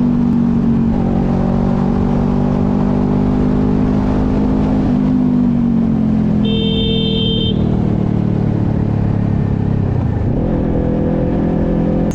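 Motorcycle engine running steadily under way, heard from the rider's own bike with road and wind noise, its pitch easing down about halfway through as the throttle is rolled off. A brief high beep about a second long sounds a little past the middle.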